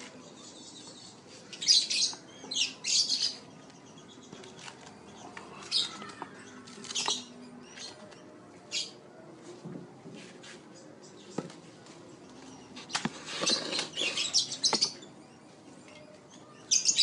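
Small birds chirping in short, scattered bursts, with a longer spell of chirping and rustling about 13 to 15 seconds in.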